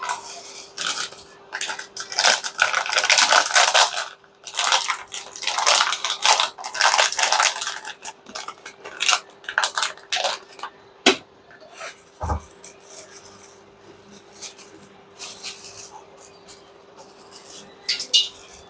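Hands seasoning raw meat in a bowl: irregular bursts of rubbing and scraping, with clinks of dishware and a single low thump about twelve seconds in, over a faint steady hum.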